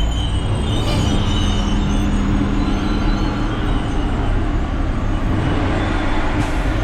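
Truck engine running steadily, a continuous low hum with road and mechanical noise.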